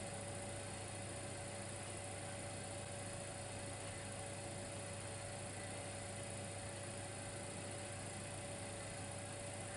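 Dimplex electric fireplace heater running: a steady faint electrical hum with a constant whine above it and an even hiss.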